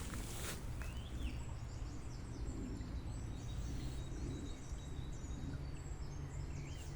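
Forest birds singing: rapid high chirps and trills go on throughout, with a short curved call about a second in, over a steady low background rumble.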